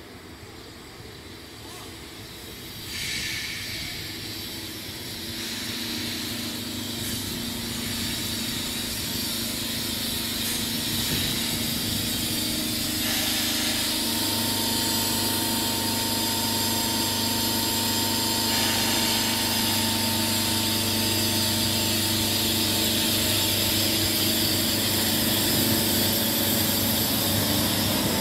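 Electric multiple unit approaching along the platform, growing steadily louder. A steady electric hum sits over the hiss of wheels on rail.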